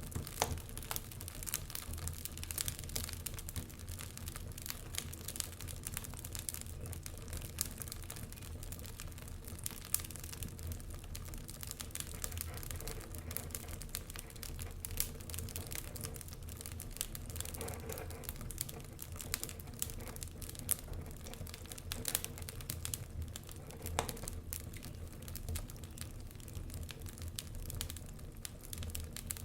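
Wood fire crackling, with many small, irregular pops and snaps.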